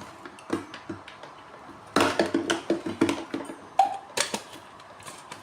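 Irregular clicks and knocks of small hard parts being handled and fitted by hand, with a screwdriver at hand, the knocks clustering from about two seconds in.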